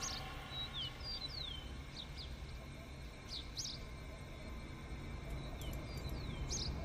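Small birds chirping in short, quick, downward-sliding calls, scattered in small groups over a low, steady background noise.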